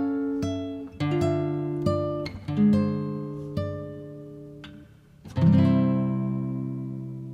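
Background music on acoustic guitar: single plucked notes and chords about a second apart, then a fuller strummed chord about five seconds in that rings out and slowly fades.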